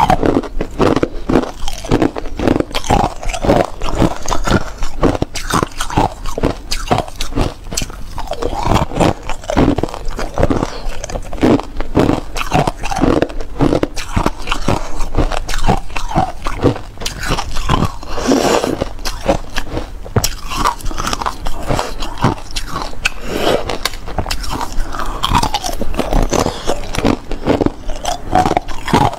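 Hard clear ice being bitten and chewed close to the microphone: a steady run of loud, irregular crunches and cracks with no pauses.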